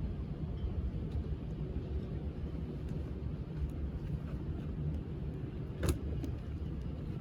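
A steady low rumble, with one sharp click about six seconds in.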